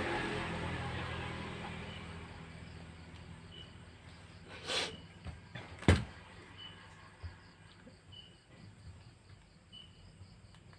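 A low hum fading away over the first few seconds, then a brief rustle and a sharp click about six seconds in, with a fainter click after it. Faint, high insect chirps repeat every second or two underneath.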